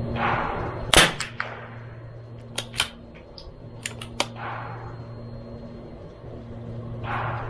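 A single shot from a CZ 457 MTR .22LR bolt-action rifle about a second in, followed by sharp metallic clicks in pairs and clusters up to about four seconds in, typical of the bolt being worked to eject the case and chamber the next round. A steady low hum runs underneath.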